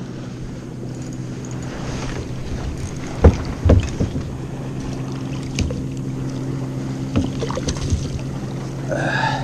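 Steady low drone of a motorboat engine on the lake, slowly growing louder, with two sharp knocks about three and a half seconds in and a few lighter clicks later.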